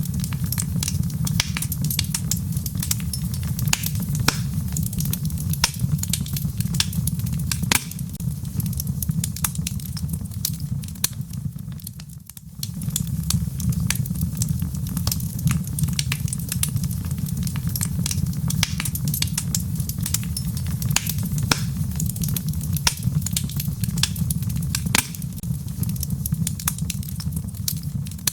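Wood fire burning in a fireplace: irregular crackles and pops over a steady low rumble. The fire dips briefly about twelve seconds in.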